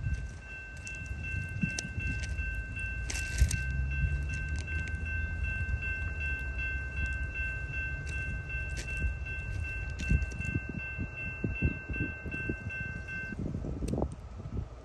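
Freight train approaching: a low, steady rumble, with its locomotive horn sounding one long, steady three-note chord that cuts off sharply near the end.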